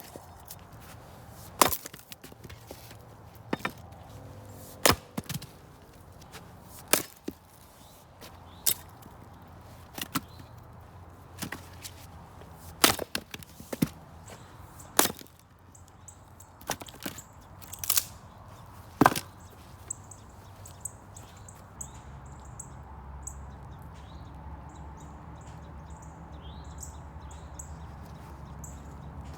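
Steel splitting maul striking and splitting firewood: about fifteen sharp, irregularly spaced chops with wood cracking apart, stopping about two-thirds of the way through.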